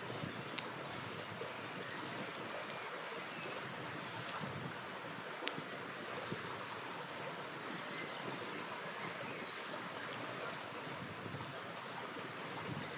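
Steady rush of a flowing river with a campfire crackling over it, sharp pops about half a second in and again about five and a half seconds in.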